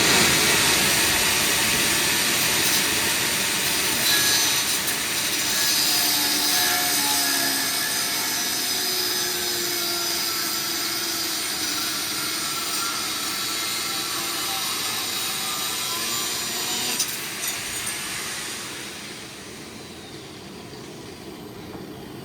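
Power tool cutting through leaf-spring steel with a steady, hissing cut and a motor tone that shifts under load. The cut finishes about 17 seconds in and the tool winds down.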